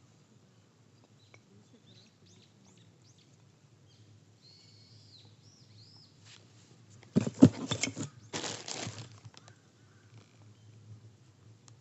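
Small birds chirping faintly, then a loud burst of handling noise with rapid clicks about seven seconds in, lasting about two seconds.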